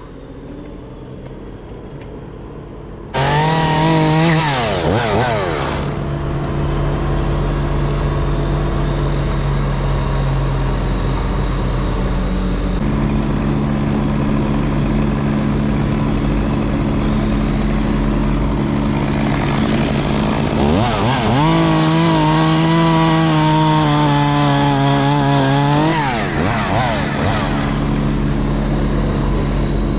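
Chainsaw revving up and cutting in two spells, one starting suddenly about three seconds in and another from about twenty seconds in, over a steady engine drone.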